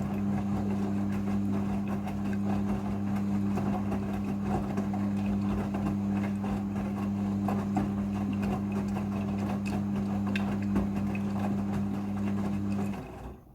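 Midea front-loading washing machine running during its rinse, a steady electric hum over water and laundry noise. The hum cuts off suddenly near the end.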